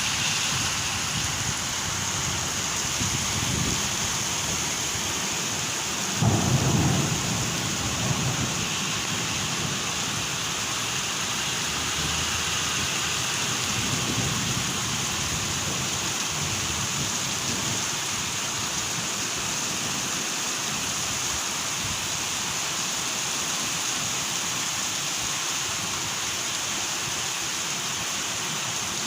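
Steady heavy rain pouring down, with a sudden low clap and rumble of thunder about six seconds in and fainter rumbles a little before and later.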